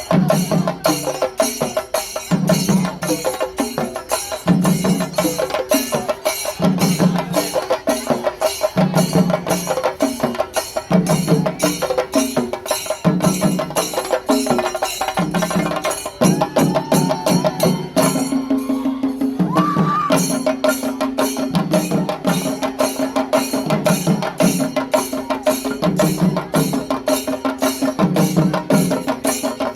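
Kerala chenda drum ensemble (chendamelam) playing a fast, steady rhythm of evenly spaced stick strokes, with a deeper beat landing about every two seconds. A little past the middle the sharp strokes briefly drop out, and a held tone then sounds under the drumming.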